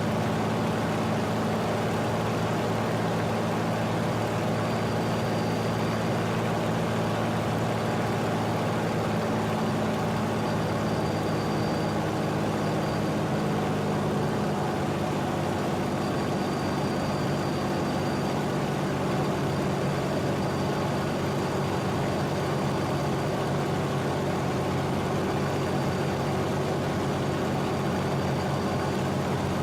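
Rolls-Royce Merlin V12 engine of a Supermarine Spitfire Mark IX running at a steady, even speed, with no change in pitch or level.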